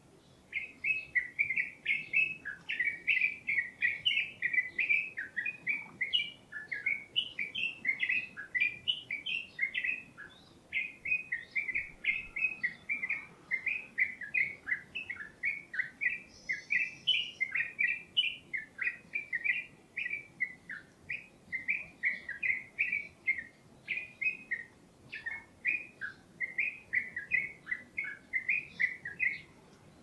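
Birdsong: a songbird singing a fast, continuous run of short chirping notes, pausing briefly about ten seconds in. A brief higher call sounds about sixteen seconds in.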